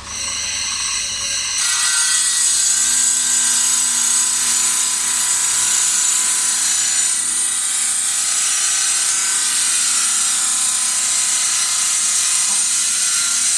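Opal being ground on a powered lapidary grinding wheel: a steady, high-pitched grinding hiss that steps up in level about a second and a half in and then holds.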